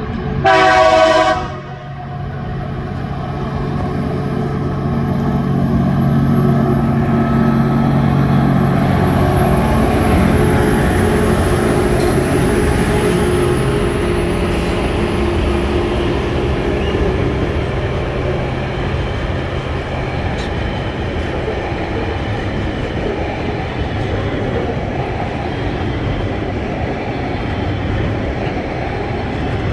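TasRail TR-class diesel locomotives passing: one short horn blast of about a second comes first, followed by the rumble of the locomotive engines going by. The steady rolling noise and clatter of freight wagons on the rails follows.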